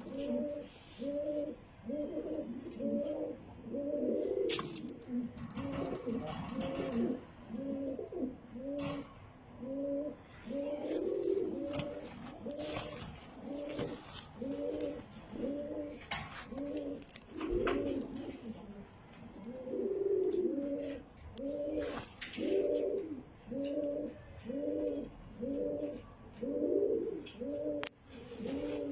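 Jacobin pigeons cooing: a steady run of short rising-and-falling coos, about one and a half a second, with several birds overlapping, and a few sharp clicks here and there.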